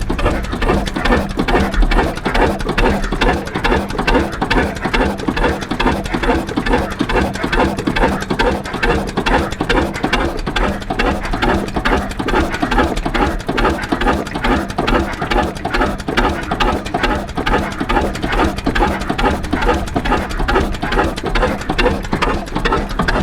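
Antique stationary engine running steadily, with a fast, even mechanical clatter.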